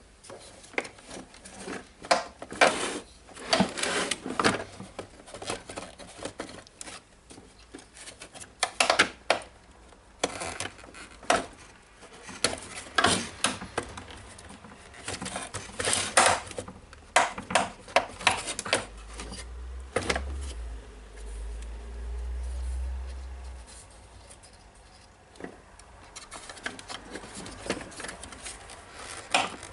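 Irregular clicks, knocks and rattles of plastic parts being handled as the DeWalt DC011 site radio's internal unit is worked back into its housing, with a low rumble for a few seconds about two-thirds through.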